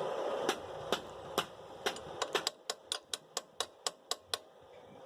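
Sharp metal taps on a Vespa's rear brake cam lever as it is seated on its shaft: a few spaced taps, then a quicker run of about four a second that stops a little before the end. A steady hiss fades out during the first half.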